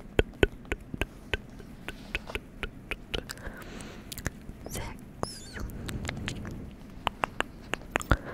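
Close-miked, irregular soft clicks and taps, several a second and varying in strength, over a faint haze: ASMR trigger sounds.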